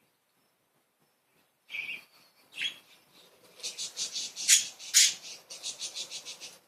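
Pet budgerigars chirping and chattering: after a short quiet, two brief chirps, then a fast run of high, pulsed chatter with two loud sharp calls in the middle of it.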